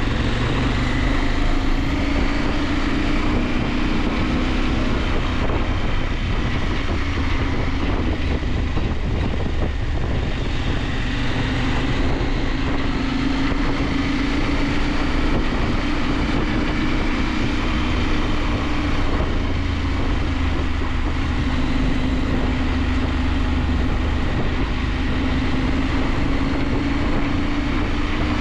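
KTM 890 Adventure's parallel-twin engine running under way, its pitch rising and falling gently with the throttle, over steady wind and road noise.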